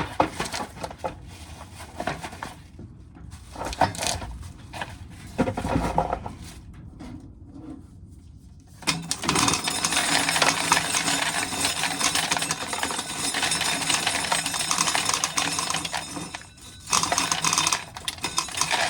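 Corn sheller stripping dry corn kernels off the cob, the kernels rattling down into a can. There are scattered clicks and knocks for the first half, then a dense, continuous rattle of falling kernels for about seven seconds, and a shorter burst near the end.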